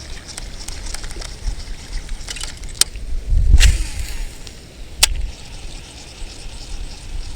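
Strong wind buffeting the microphone in a steady low rumble, with a louder gust about three and a half seconds in and two sharp clicks, one just before it and one about a second and a half after.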